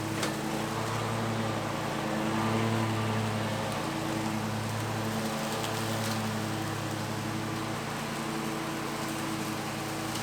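Bad Boy Maverick zero-turn mower running at a steady engine speed while mowing, its engine hum over the noise of the spinning blades.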